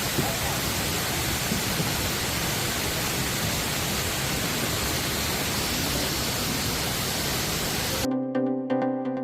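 Steady, even rushing noise of falling water. It cuts off abruptly about eight seconds in, where electronic music begins.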